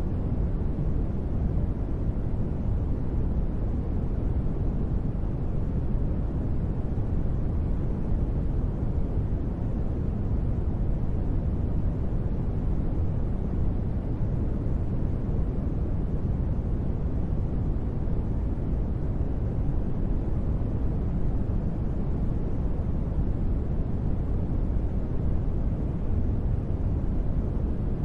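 Steady deep space-ambience noise, a soft hiss weighted toward the bass, even and unchanging throughout.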